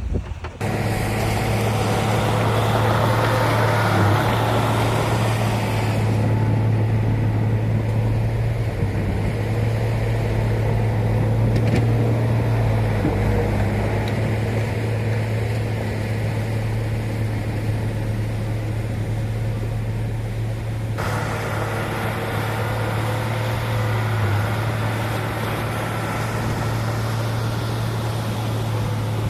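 Heavy diesel engine of earthmoving machinery running steadily with a constant low hum. Higher-pitched noise over it cuts out abruptly about six seconds in and returns about twenty-one seconds in.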